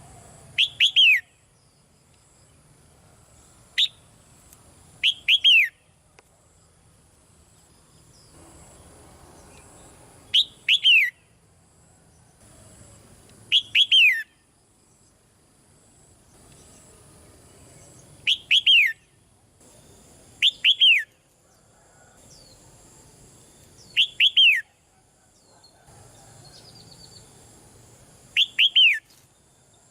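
Red-whiskered bulbul calling: short bright phrases of two or three quick downward-sliding notes, repeated about every three to four seconds.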